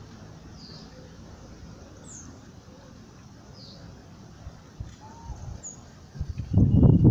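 A few faint, short, high bird chirps spaced a second or more apart over a low steady background. Near the end comes a loud, low, uneven rumble.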